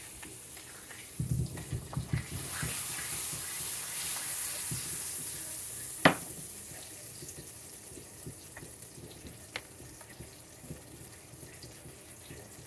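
Steady kitchen hiss, with a few low knocks of pans or utensils early on and one sharp clack about six seconds in.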